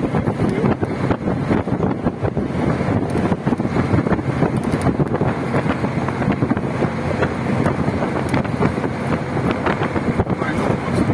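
Wind buffeting the microphone: a loud, continuous rumbling rush that rises and falls in gusts.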